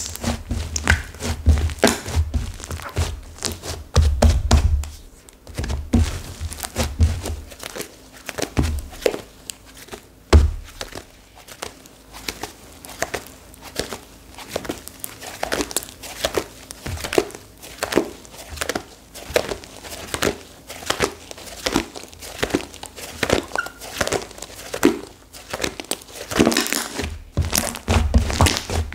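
Hardened clay slime being squeezed, pressed and pulled apart by hand: dense, irregular crackling and crinkling, with dull thumps now and then as it is pressed down. The clay has set stiff and crunchy.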